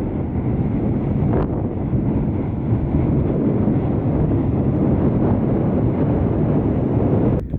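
Strong wind buffeting the camera microphone: a loud, steady low rumble of wind noise, which drops off abruptly near the end.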